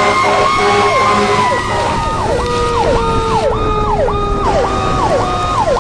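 Two emergency-vehicle sirens sounding together over a low rumble. One is a slow wail winding down in pitch. The other is a fast yelp cycling up and down about twice a second, which takes over from about two seconds in.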